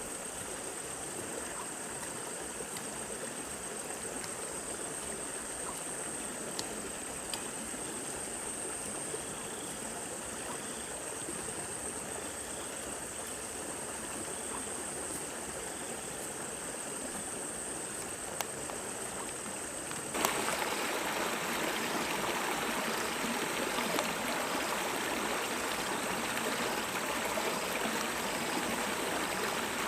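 Steady flowing water with a constant high-pitched insect drone over it. About twenty seconds in, the water sound abruptly gets louder and a faint pulsing insect call joins it. There are a few light clicks.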